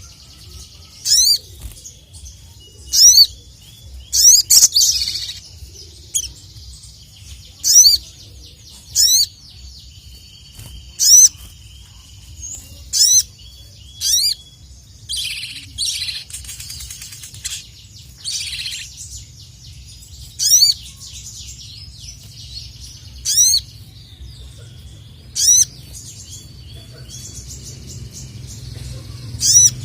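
A crimson sunbird (sogok ontong, 'sogon') calling over and over. Each call is a sharp, high chirp that sweeps up and down, and a new one comes every one to two seconds. A few short, hissy rustling bursts come around the middle.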